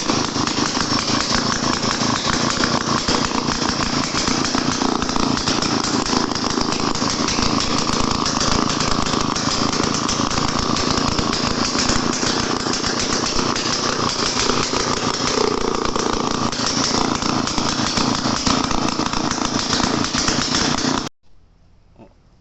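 A small engine running steadily with a rapid, dense beat, cut off abruptly near the end.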